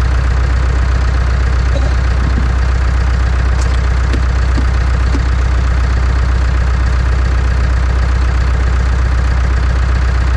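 Massey Ferguson 5400-series tractor's diesel engine running steadily at a loud, even idle.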